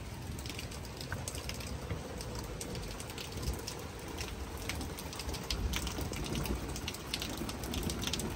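Rain pouring down during a thunderstorm: a steady hiss with many sharp taps of drops striking close by, the taps coming thicker near the end.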